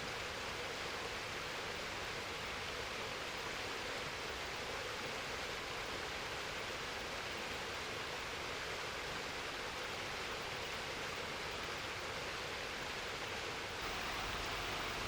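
Mountain stream water rushing over rocks, a steady even hiss that gets a little louder near the end.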